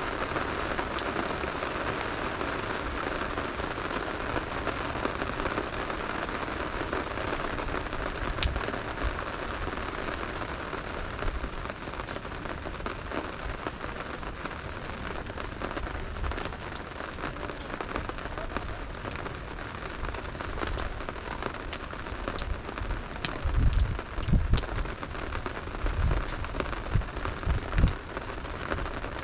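Steady rain with a campfire burning in it: scattered sharp crackles and pops over the even hiss of the rain. A few low thumps come near the end.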